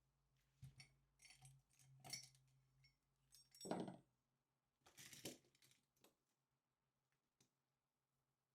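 Small objects being handled and set down on a desk while it is tidied: faint clinks and rustles, with a heavier knock about three and a half seconds in and another about five seconds in.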